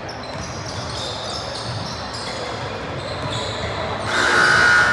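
Basketball game on a gym court: sneakers squeak in short high chirps and the ball thuds faintly. Near the end comes a loud, shrill blast lasting under a second.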